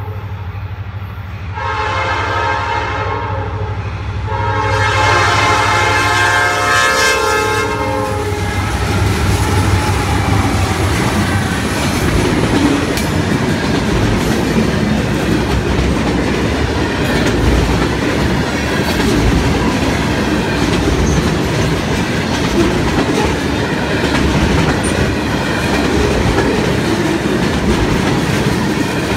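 Freight train horn sounding two blasts, the second longer, as the train reaches the grade crossing. Then the steady rumble and clickety-clack of the freight cars' wheels as a long string of loaded flatcars rolls past.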